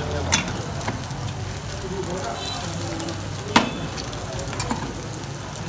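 Eggs frying on a large flat griddle: a steady sizzle, with a few sharp clicks, the loudest about three and a half seconds in.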